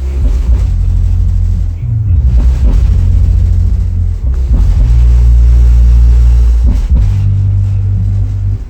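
A 15-inch subwoofer driven by a Boss 3000-watt class D car amplifier plays loud, deep bass notes that change pitch every second or so. The amplifier is working again, out of protection after its damaged output transistor was replaced.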